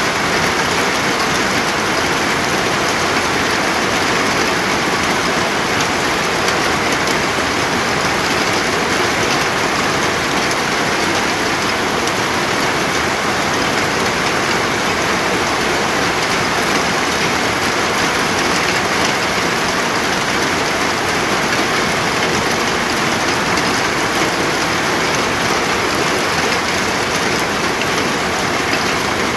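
Steady, heavy rain falling and pattering on surfaces, a continuous even hiss without breaks.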